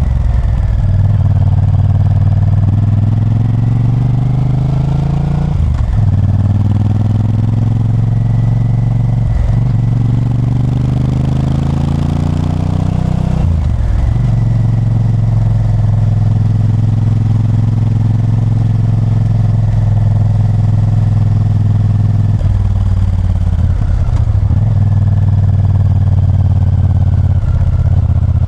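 Honda Varadero 1000's V-twin engine accelerating through the gears: three rising runs in pitch, each cut off by an upshift, then a steady note at cruising speed.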